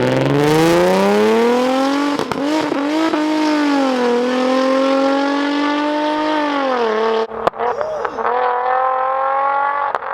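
Infiniti G35's 3.5-litre V6 through a Tomei Expreme Ti titanium exhaust in a full-throttle pull. The revs rise with quick upshifts about two and three seconds in, hold, then drop as the throttle lifts about seven seconds in. The lift-off brings a burst of sharp pops and cracks from the exhaust, which is tuned for pops and flames, then a lower steady drone with a few more pops.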